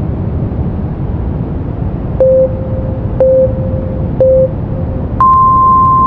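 Steady brown noise, with three short low beeps a second apart and then one long, higher beep: a countdown signalling that the timer has run out.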